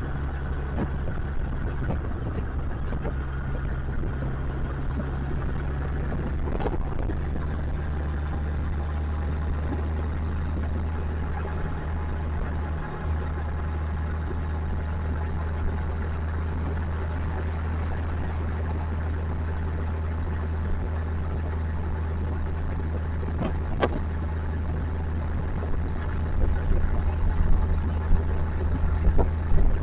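Motorcycle engine running at a steady pitch while riding, with rushing noise over it. Two sharp clicks, about 7 and 24 seconds in, and uneven louder bumps near the end.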